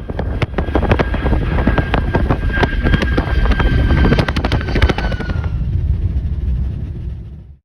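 Jet airliner passing, its engines giving a whine that drops slightly in pitch over a deep rumble, mixed with heavy wind buffeting the microphone; it cuts off just before the end.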